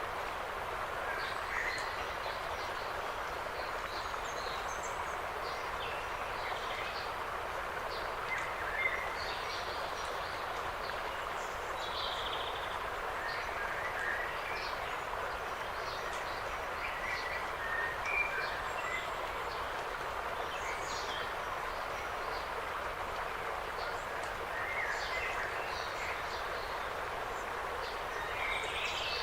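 Autumn forest ambience: small birds chirping and calling here and there over a steady hiss of wind.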